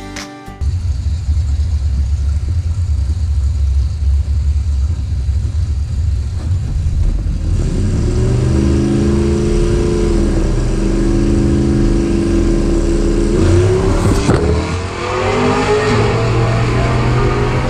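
Car engine at a drag strip: a deep low rumble at first, then from about halfway an engine note that holds steady, dips briefly and climbs in pitch as a car accelerates down the strip.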